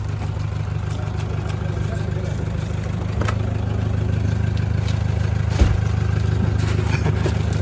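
A motor vehicle engine running steadily at an even pitch, a little louder from about three seconds in, with a single short knock a little past halfway.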